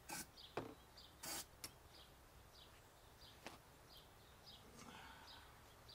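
Near silence, with a bird's short high chirp repeated about twice a second, a few light clicks and knocks of handling, and one brief hiss about a second in.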